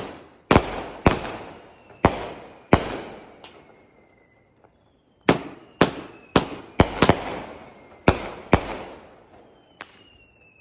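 Consumer aerial fireworks going off: about a dozen sharp bangs, each trailing away, with a pause of about two seconds in the middle. A faint whistle falling in pitch runs between some of the bangs.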